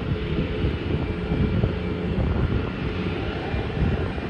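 Jet airliner engines running: a steady rumble with a faint high whine over it.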